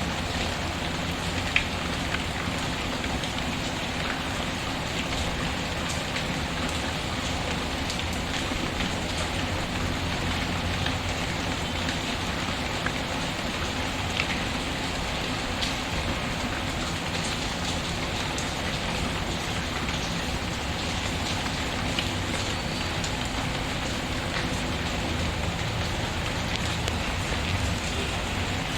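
Steady patter of rain with a fireplace crackling, a few sharp pops standing out now and then.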